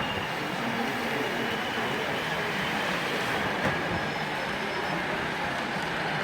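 A model train running on an exhibition layout: a steady hum of motor and wheels on the track, with a faint high whine.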